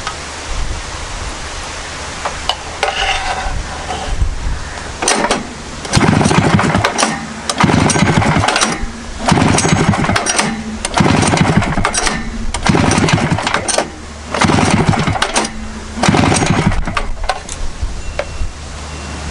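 1973 Rupp 440 two-cylinder snowmobile engine being cranked over, about seven pulls in a row roughly every one and a half seconds, with its spark plugs out and a compression gauge in one cylinder. The engine reads about 205 psi, high compression.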